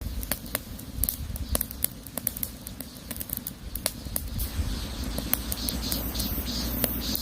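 Wood fire crackling: irregular sharp pops and snaps over a low rumble, with a hiss growing from about halfway through.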